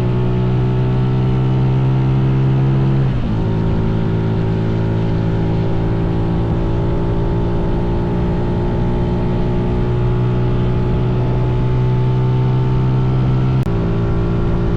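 Mini bike's small engine running at a steady cruising speed with wind rumble on the microphone. Its pitch dips and recovers about three seconds in, and the sound drops out for an instant near the end.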